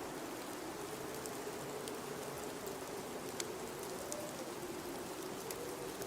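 Blizzard wind howling around a building: a steady hiss with a wavering, howling whistle that rises and falls, and scattered light ticks.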